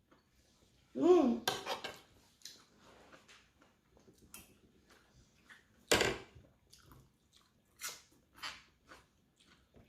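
Cutlery and dishes clinking during a meal of noodle soup, with scattered sharp clicks, the loudest about six seconds in. A short hummed 'mm' from a voice about a second in.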